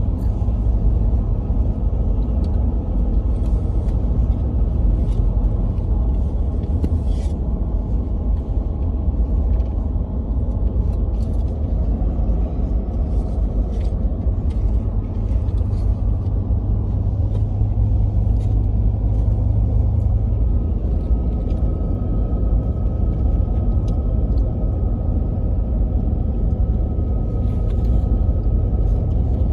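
A steady low rumble of vehicle noise, with scattered faint ticks.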